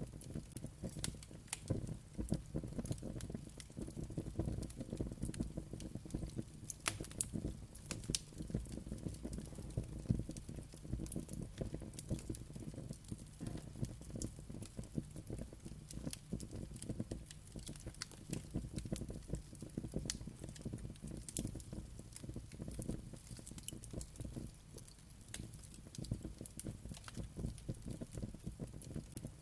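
Wood fire burning with a low steady rumble and frequent irregular crackles and pops.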